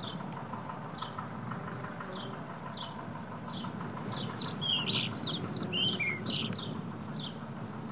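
A bird chirping: short falling chirps repeating a little under once a second, with a quick flurry of more varied chirps in the middle, over a steady low hum.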